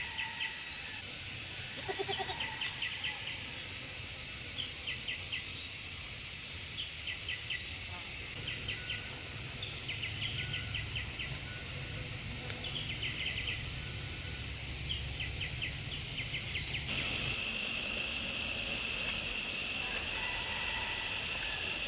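Steady high insect drone with repeated short trains of rapid chirps, and a brief call about two seconds in.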